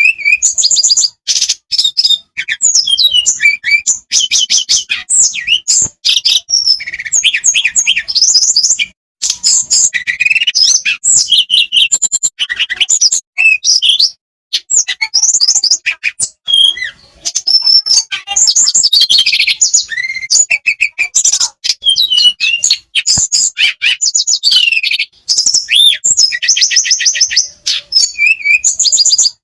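A tledekan songbird singing a long, fast song of rapid trills and repeated chirps, with only brief pauses. This is a loud lure recording meant to set caged birds singing.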